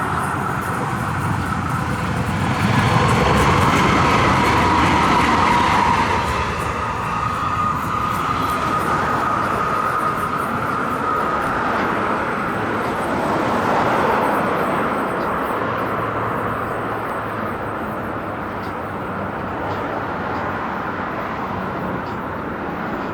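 Sacramento light rail train running past: a steady rumble with a high whine. It is loudest a few seconds in, then slowly fades.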